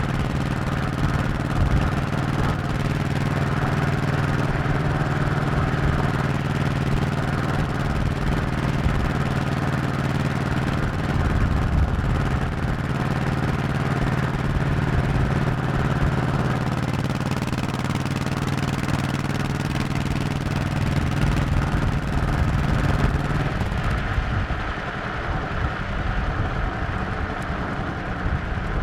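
Honda 1100cc V-twin motorcycle engine running steadily while riding, with a low rush underneath. About 24 seconds in the engine note softens and loses its steady tone.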